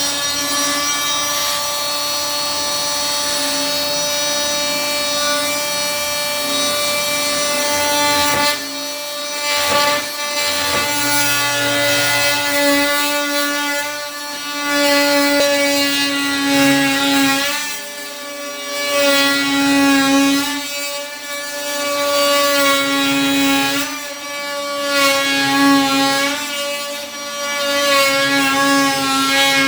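Electric power tool working wood, its motor whining steadily, then swelling and dipping every two to three seconds from about eight seconds in as it is pushed through the wood.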